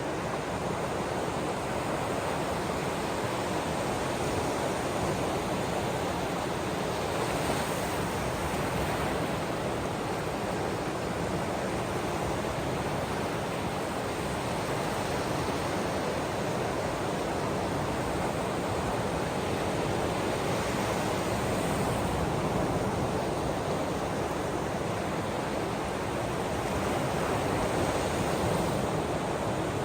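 Ocean waves washing in a steady, even rush of noise that swells slightly now and then.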